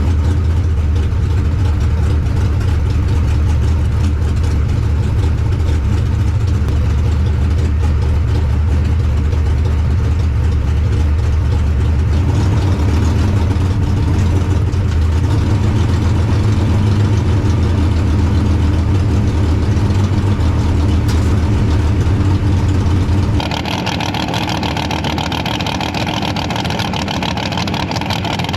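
Small-block V8 engine running with a loud, steady low rumble. About 23 seconds in the sound changes abruptly: the rumble thins out and more hiss comes through.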